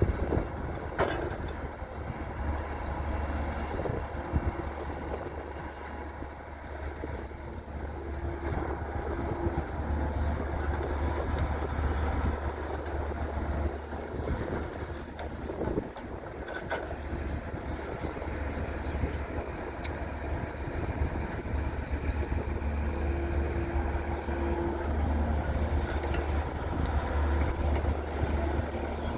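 Daewoo Solar 170W3 wheeled excavator's diesel engine running steadily with a deep hum while it loads mud, with a few scattered knocks and clanks from the work.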